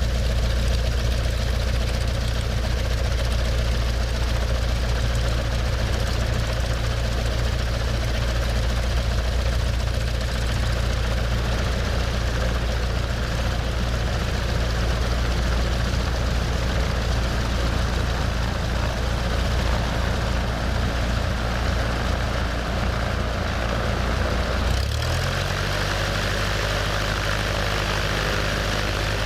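Cessna 172's four-cylinder piston engine and propeller running steadily at low speed. About 25 seconds in, the engine speeds up, rising in pitch.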